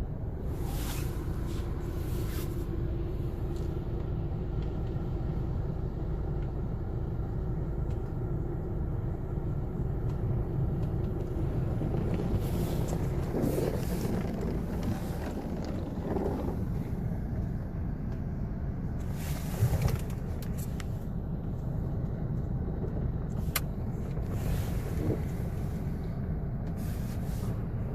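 A car heard from inside, with a steady low rumble. Short hissing rushes break in every few seconds.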